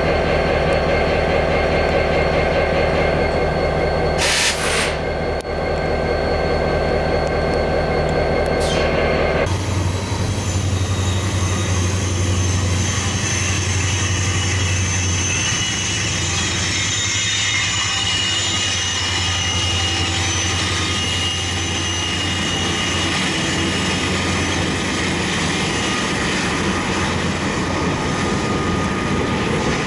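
Norfolk Southern SD70ACe diesel locomotive running past close by in a freight train, its engine a steady drone, with two short high hissing bursts. After a cut about nine seconds in, a freight train approaches from farther off with a deep low rumble and thin high wheel-squeal tones over it.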